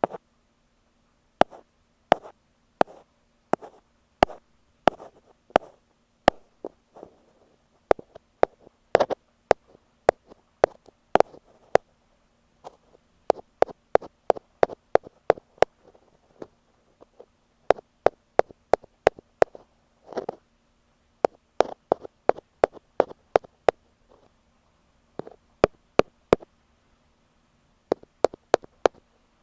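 Ear pick tapping on an earphone microphone: crisp taps, some single and some in quick runs of several, with short pauses between, over a faint steady hum.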